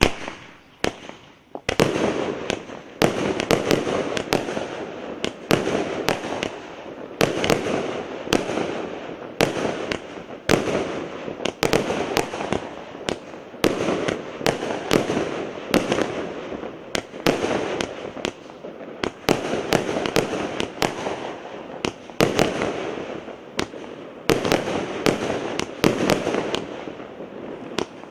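A 100-shot, 1-inch fireworks cake firing: one sharp bang at the start, then from about two seconds in a steady run of sharp launch and burst bangs in quick succession, with hissing crackle between them from the crackling willow effects.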